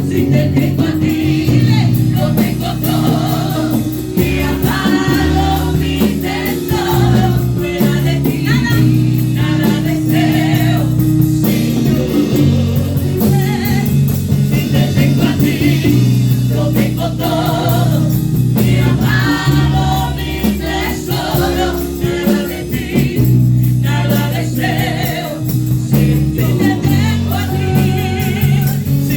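Live praise-and-worship music: a group of singers with a band, over sustained low notes and a steady beat.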